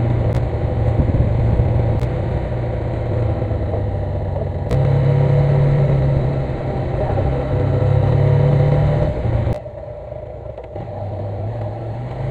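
Motorcycle engine running under way, opening up about five seconds in and easing off sharply near the end.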